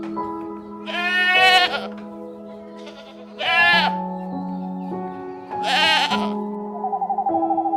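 A goat bleating three times, each call a short wavering cry, about a second in, about three and a half seconds in and about six seconds in, over background music with long held notes.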